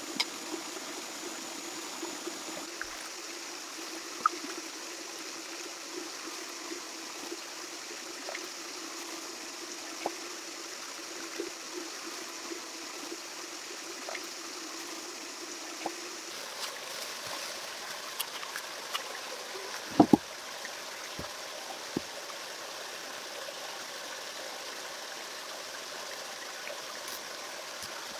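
Steady running water, like a small stream trickling, with scattered small clicks and knocks. The loudest is a sharp double knock about twenty seconds in.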